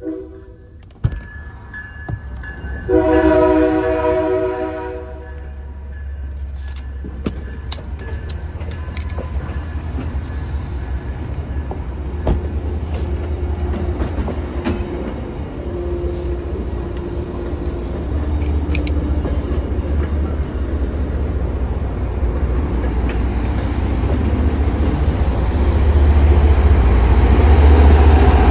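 MBTA commuter rail train passing. A multi-note train horn sounds for about two seconds near the start, then bilevel coaches roll by with steady wheel noise and scattered rail clicks, and the low rumble of the MPI HSP46 diesel locomotive pushing at the rear grows loud near the end.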